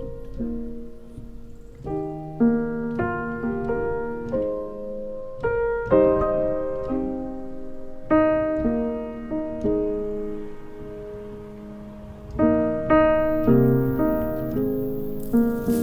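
Soft background piano music: slow chords and single notes struck and left to ring out.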